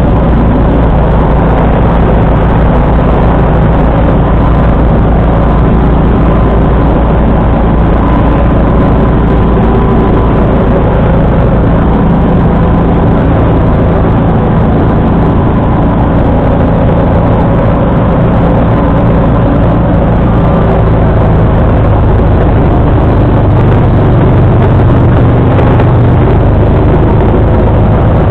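John Deere 445 garden tractor's liquid-cooled V-twin engine running steadily under load, driving its 47-inch snowblower. The engine note changes about three-quarters of the way in.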